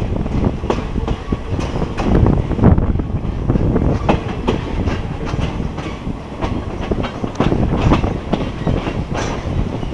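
Passenger train running on the rails: a steady low rumble with irregular metallic clacks of the wheels over the track.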